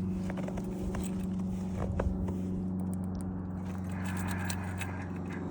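Ram truck's Cummins inline-six turbodiesel idling steadily just after a cold start in 22°F weather, with a few light clicks over it.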